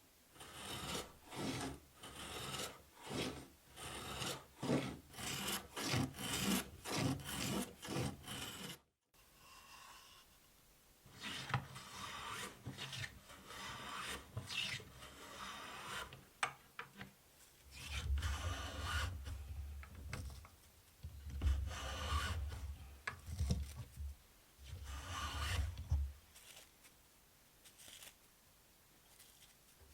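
A hand tool rasping back and forth across wood, at about two strokes a second. The sound breaks off at a cut about nine seconds in, then resumes in less regular strokes with a deep rumble underneath in the second half, before going quiet near the end.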